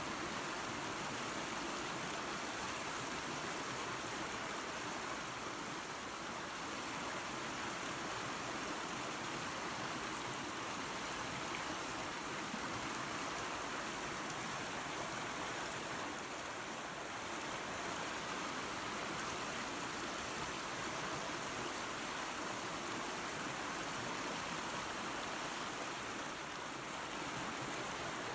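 Small waterfall and creek, water running steadily with an even rushing sound.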